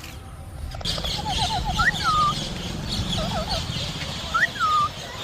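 Birds calling: a quick run of short rising notes, then two whistled calls about two and a half seconds apart, each rising sharply and falling away, over a steady high-pitched background hiss.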